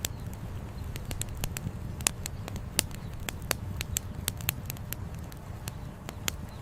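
Campfire crackling: sharp, irregular pops and snaps of burning firewood, several a second, over a steady low rumble of flowing river water.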